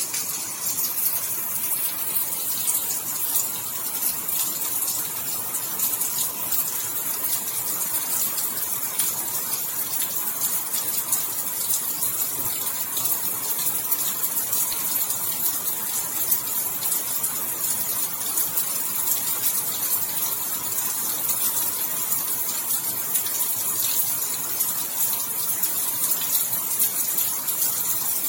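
Steady heavy rain falling, a dense even hiss made of many fine drop impacts, with no thunder or gusts.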